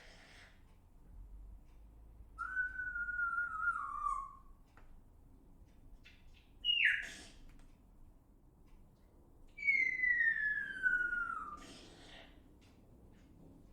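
A bird giving three clear whistled notes, each sliding down in pitch: a drawn-out one of about two seconds, a short sharp falling note, then another long falling whistle of about two seconds.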